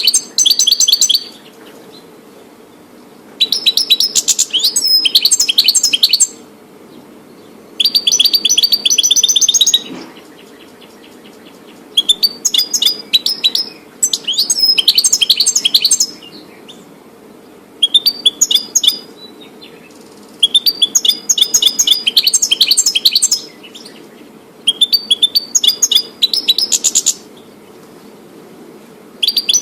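European goldfinch singing: repeated phrases of fast, high twittering, each lasting a couple of seconds, with short pauses between them.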